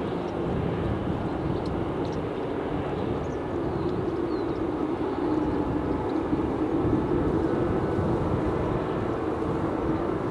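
Boeing 737-800 jet engines running: a steady rushing noise with a hum underneath that swells a little through the middle.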